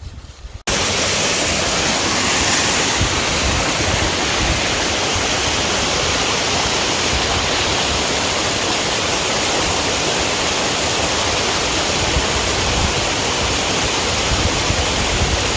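Waterfall: a loud, steady rush of falling water that cuts in suddenly less than a second in.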